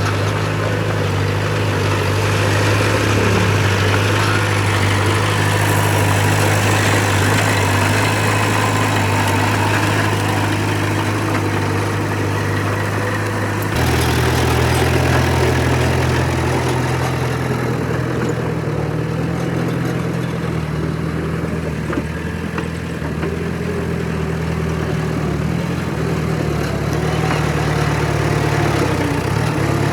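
Heavy construction-machine diesel engine running steadily, its low note changing abruptly about halfway through.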